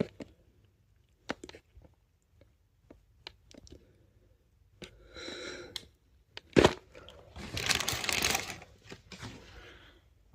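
Takeaway food packaging being handled: scattered clicks and crinkles, a sharp snap about six and a half seconds in, then a longer stretch of rustling and tearing of paper or cardboard.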